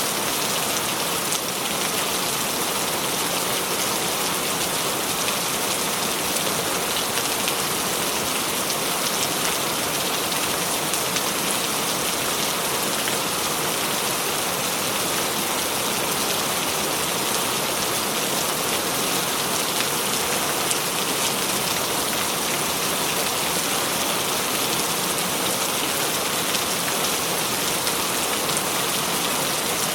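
Steady rain falling, an even hiss of countless drops that does not change.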